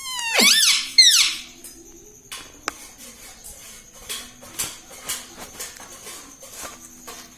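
Indian ringneck parrot giving two loud squawks that rise and fall in pitch in the first second and a half, then soft clicks and faint chatter.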